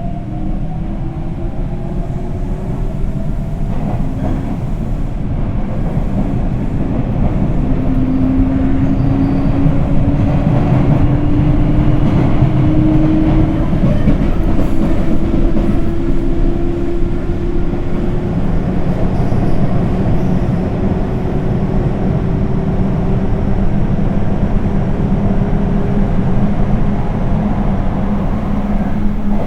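Sotetsu 8000 series electric train running, with a Hitachi GTO-VVVF inverter and traction motors whining in slowly rising tones over the rumble and clatter of wheels on rail. It grows louder over the first half.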